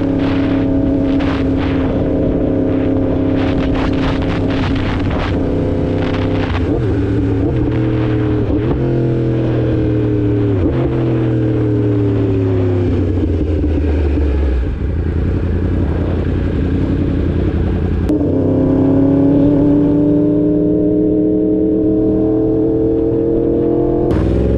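2016 Yamaha R1's crossplane inline-four engine heard from the bike. It runs steadily at first, then slows with its pitch falling in several steps, like downshifts. It settles low, then pulls away again about three quarters of the way through, with a gear change near the end.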